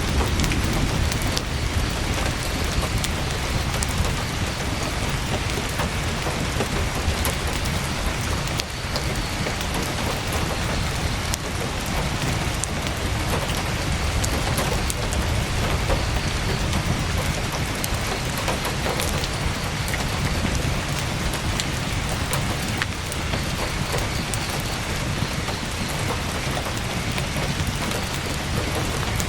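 Heavy rain falling steadily on a tent, a dense even patter with a deep low rumble underneath and scattered sharp drop ticks.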